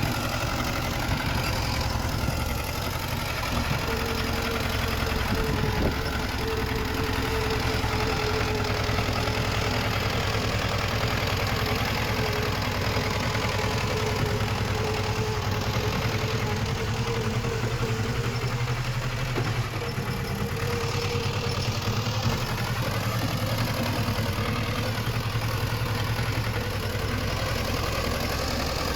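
Diesel engine of earthmoving machinery running steadily. A steady higher tone rides over it from a few seconds in until past the middle.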